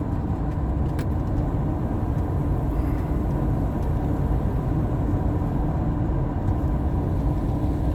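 Steady low rumble of a car driving: engine and road noise, even throughout with a faint steady hum.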